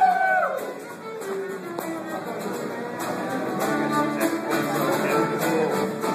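Acoustic string band playing a tune, with fiddle and guitar over a steady, rattling percussion beat.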